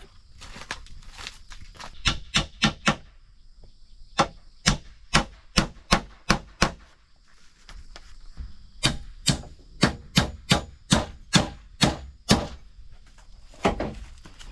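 Tool chopping into wood or bamboo in sharp, even strokes, about two a second. The strokes come in three runs of about four, six and nine, with short pauses between.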